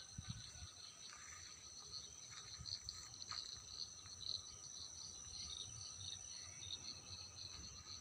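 Faint morning chorus: insects trill steadily at a high pitch, with faint, scattered bird calls underneath.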